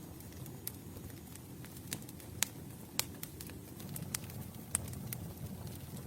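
Campfire burning: a steady low rumble of the flames with irregular sharp crackles and pops of burning wood, the strongest pops a little over two and a half seconds, three seconds and nearly five seconds in.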